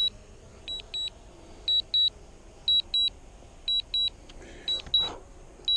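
Drone remote controller beeping a short high double beep about once a second, the low-battery warning as the aircraft's battery runs down. A brief rustle comes about five seconds in.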